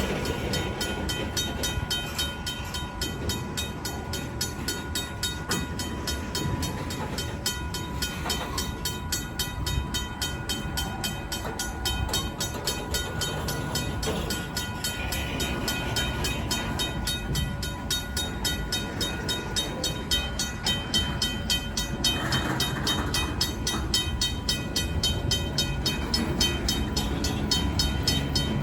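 Freight cars of a long Union Pacific local rumbling steadily over a grade crossing, with the crossing's RACO mechanical bell ringing in rapid, even strokes throughout.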